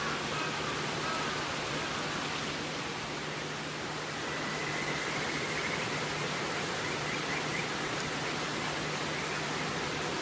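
River water rushing steadily, an even wash of noise, with faint high chirps over it in the middle.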